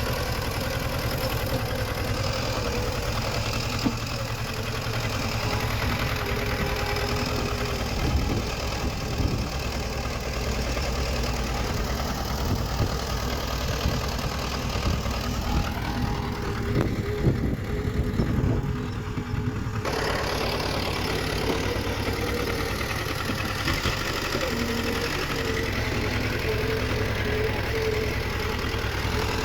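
Diesel engine of earthmoving machinery running steadily, with scattered short metallic clanks and knocks through the middle stretch.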